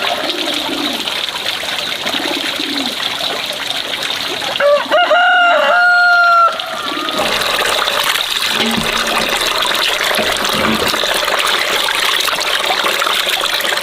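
A rooster crows once, loudly, about five seconds in, a single call of under two seconds. Running water trickles steadily throughout.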